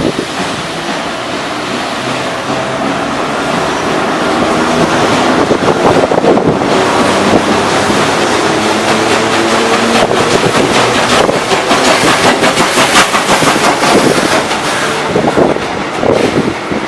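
Train running past, hauled by an FS E656 electric locomotive: steady rail running noise with a faint motor whine and rapid clicking of wheels over rail joints. It grows louder through the middle and eases near the end.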